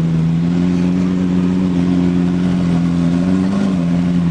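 Car engine idling steadily, with a slight brief rise in revs about three and a half seconds in.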